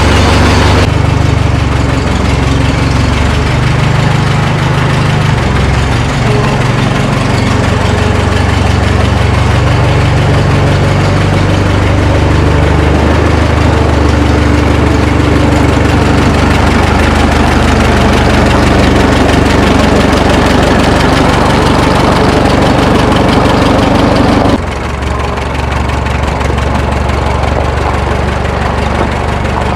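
Minneapolis Moline tractor engine running steadily after being started, its speed wavering during the first dozen seconds and then settling. The sound drops abruptly in level about 25 seconds in.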